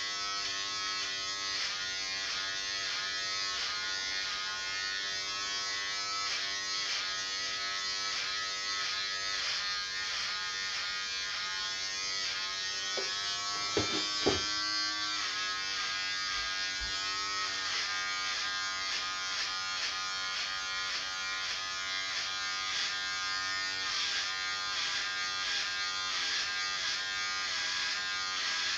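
Electric hair clippers running with a steady buzz while cutting, with a couple of brief knocks about halfway through.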